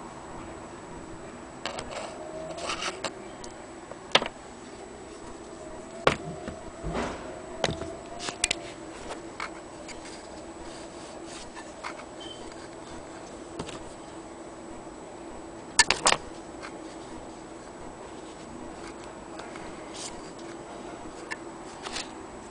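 Antique Willcox & Gibbs sewing machine being handled: irregular sharp clicks and knocks, the loudest a close double knock about two-thirds of the way through, over a steady faint hum.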